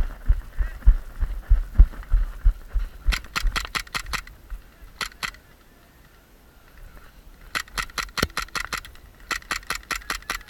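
Airsoft gunfire in several quick strings of sharp cracks, about ten shots a second, with a short pause between strings. Before the shooting there are a few seconds of heavy thudding footfalls and rattling gear.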